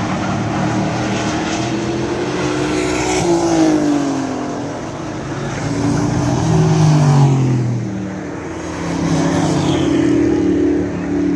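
Race truck engines running at speed on an oval track, several passing by in turn so the engine note swells and bends down in pitch a few times.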